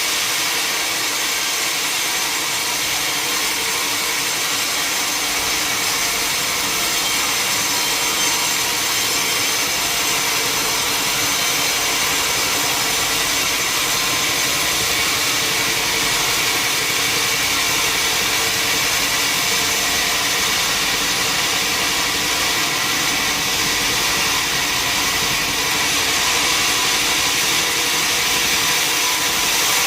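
Sawmill saw cutting steadily through a large log: a loud, even, unbroken sawing noise with a steady high ring.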